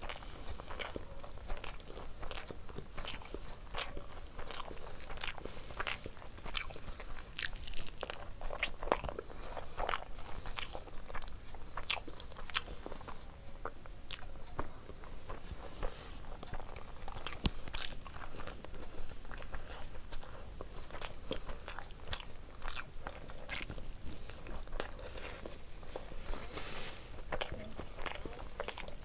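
A person chewing mouthfuls of rice and egg curry, with many short wet smacking and squishing clicks, alongside fingers mixing rice and gravy on the plate. One sharper click stands out just past halfway.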